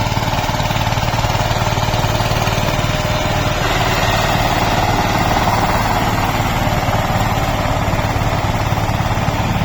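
Diesel tractor engine running steadily with a rapid, even chugging beat.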